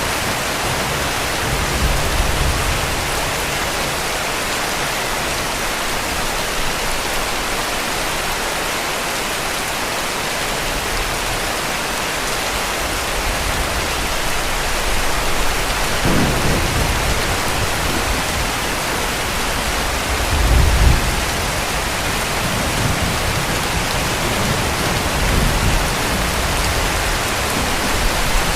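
Heavy rain pouring steadily, with distant thunder rumbling low several times, the strongest rumble about two-thirds of the way through.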